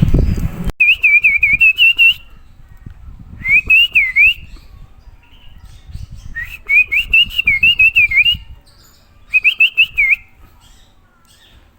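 White-rumped shama (murai batu) singing: four phrases of rapid, looping whistled notes, separated by short pauses. Loud low noise cuts off suddenly under a second in, just before the first phrase.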